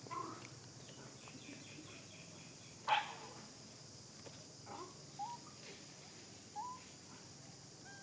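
Short animal calls over a steady high hiss: one loud, sharp bark-like call about three seconds in, then several brief calls that slide upward, spaced a second or so apart.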